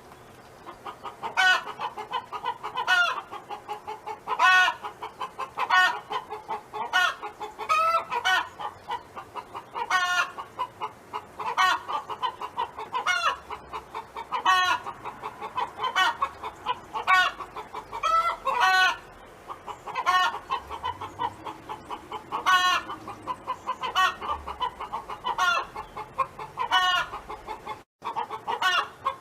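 Domestic hen clucking and calling: a loud, drawn-out call about every second and a half, with quicker short clucks in between. The sound cuts out briefly near the end.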